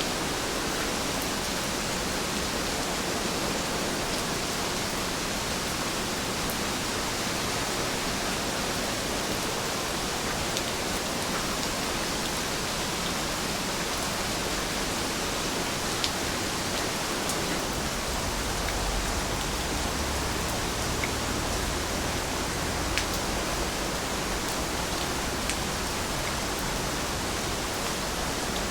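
Steady rain falling in an even hiss, with a few sharper single drop ticks now and then.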